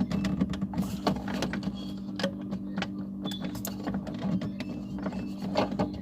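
Plastic clicks, knocks and rattles of a refrigerator water filter and its housing being worked loose by hand, over a steady low hum.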